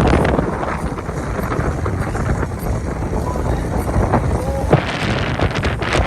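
A speedboat running at full speed, its motor drone half buried under heavy wind buffeting the microphone.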